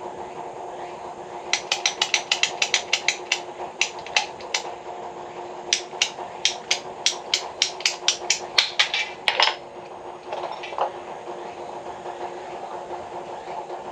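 Two runs of quick, sharp taps, about four or five a second, over a steady hum.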